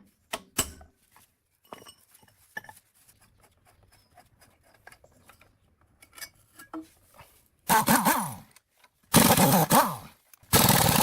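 Light scattered clicks and taps of handled metal, then a hand-held power tool run in three short bursts, its pitch wavering as it works.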